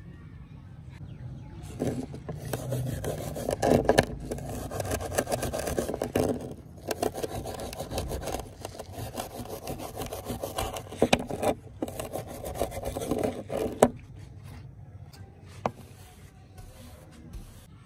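Rapid back-and-forth scraping strokes of hand abrasive work on metal, as in rubbing down rusty pliers, in three spells of a few seconds each starting about two seconds in and stopping near fourteen seconds. A single sharp click follows near the end.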